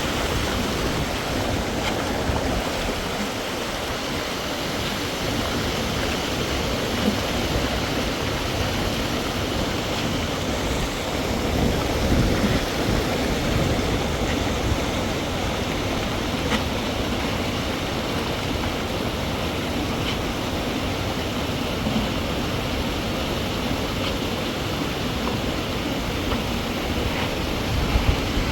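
Steady rushing of flowing stream water, a constant even noise with a few low swells.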